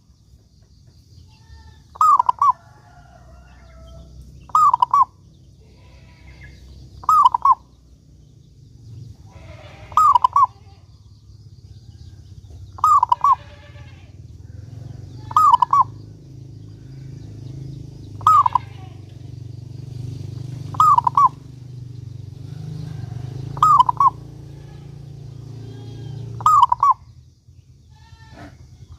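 Zebra dove (perkutut) cooing its song, a short burst of rolling notes repeated about every two and a half to three seconds, over a low steady rumble.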